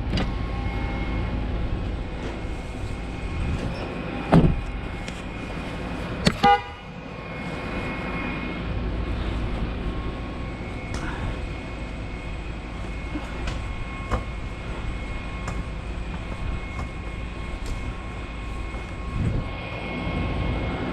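A vehicle engine running steadily with a constant high whine over it, and sharp metallic clanks about four and six seconds in, the second followed by a quick rattle.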